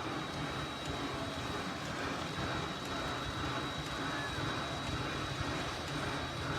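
Steam locomotive Rx224 standing in steam, giving off a steady hiss and low rumble with a thin high whine running through it.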